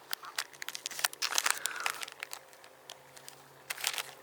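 Foil wrapper of a Pokémon Shining Fates booster pack crinkling and tearing as it is opened, in a run of short crackles that thin out midway, with a last cluster near the end.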